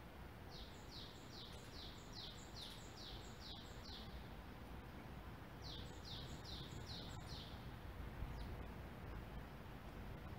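A small songbird singing: two runs of quick repeated notes, each note falling in pitch, about three a second, the first run about ten notes long and the second about five, over steady low outdoor background noise.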